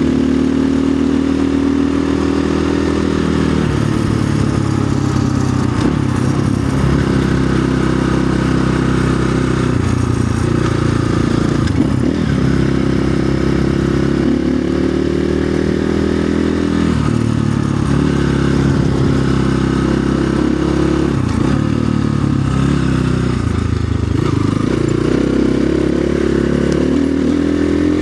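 Orion RXB250XL 250cc dirt bike engine running under load on a trail ride, its pitch rising and falling repeatedly as the throttle opens and closes, with some rattling and scraping from the ride.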